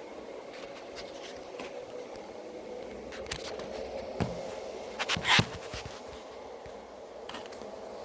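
Early-1980s Evergo 48-inch ceiling fan motor running with a steady hum. A few sharp clicks and knocks come through it, loudest about five seconds in.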